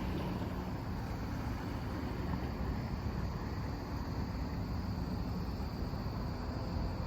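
Crickets chirping steadily in a high, even band over a low, steady rumble.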